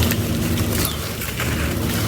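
Dry sand-cement texture crumbling, with scattered crackles and crunches over a steady low hum.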